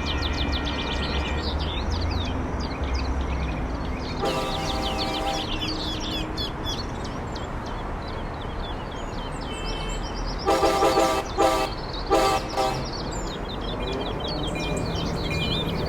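A train running past with a steady rumble while its horn sounds: one blast about four seconds in, then four blasts in quick succession, long then shorter, starting about ten seconds in. Birds chirp throughout.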